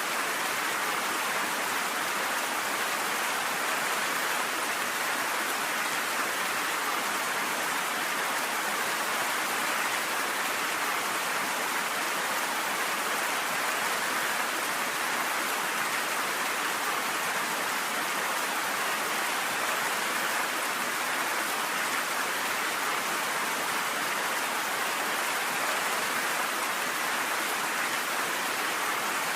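Steady, even rain falling, a constant hiss with no thunder or separate drops standing out.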